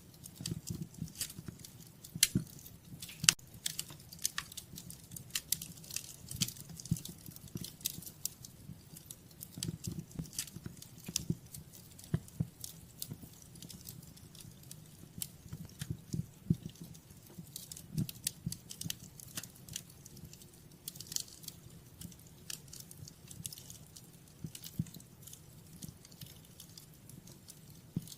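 Wood fire crackling in a fireplace: irregular sharp pops and clicks, several a second at varying loudness, over a low steady rumble of the burning logs.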